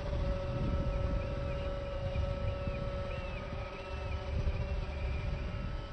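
Steady whine of a small electric RC airplane motor over wind rumbling on the microphone, with short high chirps repeating about twice a second.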